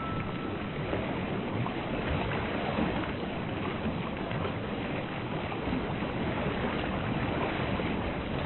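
Steady rushing ocean water, an even wash of waves with no distinct breaks.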